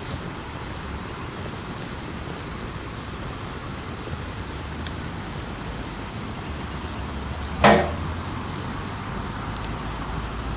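Campfire burning with a steady soft hiss and scattered faint crackles, and one much louder sharp pop about three-quarters of the way through.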